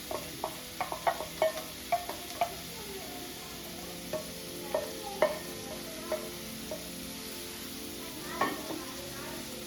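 A utensil clinking and scraping against a metal pan as food is stirred: a quick run of sharp clinks over the first couple of seconds, then scattered ones and a last cluster near the end, over a steady faint hiss.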